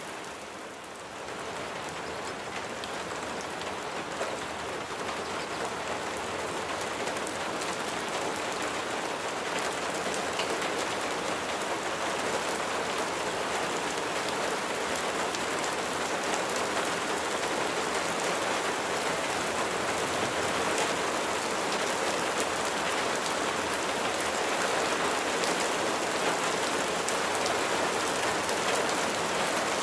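Steady rain falling on a surface, a dense hiss of drops with fine individual patters. It dips briefly about a second in, then grows gradually heavier.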